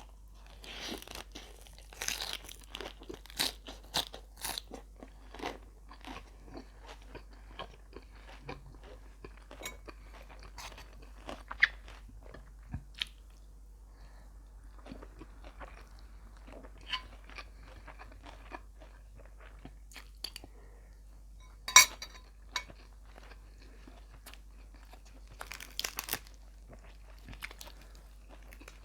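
A person chewing and crunching beef laab with rice close to the microphone: irregular sharp crunches and wet mouth clicks. The loudest single crunches come about a third of the way in and about three quarters of the way in, with a quick cluster near the end.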